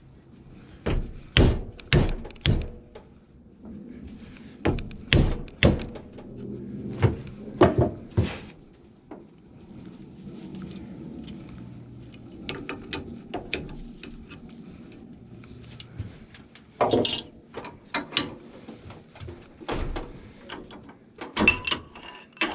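Irregular metal clanks and knocks from hand tools and a bench vise as the old power steering pump is clamped up to break loose its pulley nut, in several short clusters.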